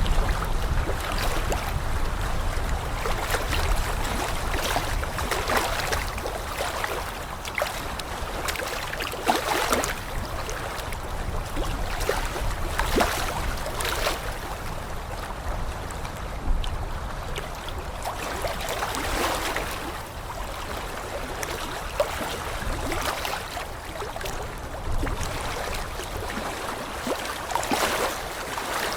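Flowing water, an even rush broken by many small irregular splashes.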